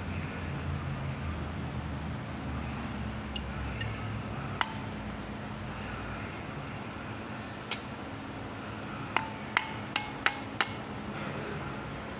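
Sharp metallic clinks of small steel parts and tools handled on the bench while an injection pump is worked on: a few single clinks, then a quick run of five near the end, some leaving a short ring. A steady low hum runs underneath.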